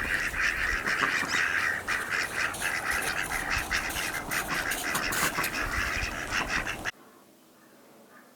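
A flock of birds calling over one another in a dense, continuous chorus, cut off abruptly near the end.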